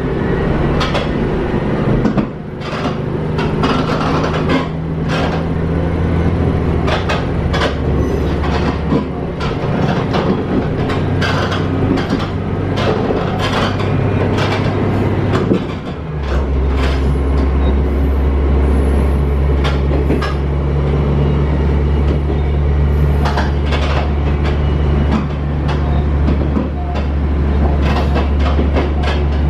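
Diesel railcar running, heard from inside the passenger cabin: a steady low engine hum with frequent clicks and rattles. About halfway through, the engine note drops lower and gets louder.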